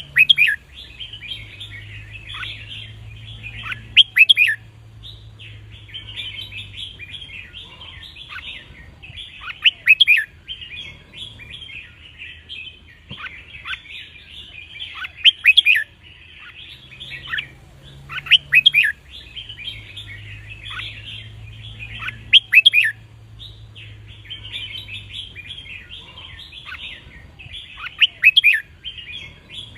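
Red-whiskered bulbul song: a continuous busy chattering with loud, sharp whistled phrases breaking out every few seconds, the kind of song used to train young bulbuls and set caged birds singing.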